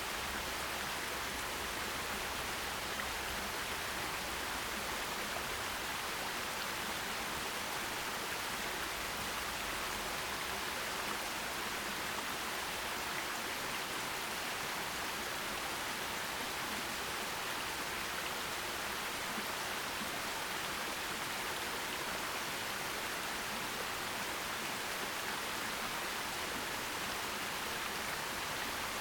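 Forest stream rushing and splashing over rocks: a steady, even wash of water noise.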